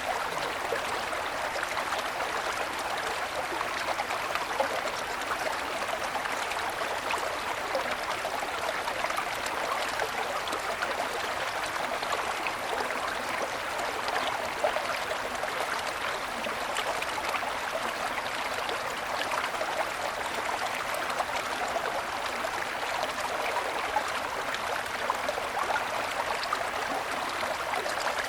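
Small mountain stream running over snow-covered stones: a steady babble and trickle of water with many small splashes and gurgles.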